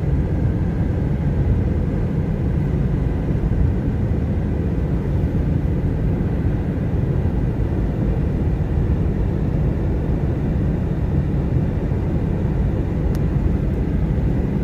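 Steady low rumble of a moving road vehicle, with road and engine noise and no change in pace.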